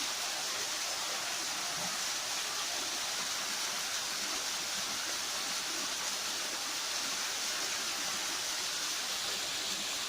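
Steady rush of flowing river water: an even hiss with no breaks or pulses.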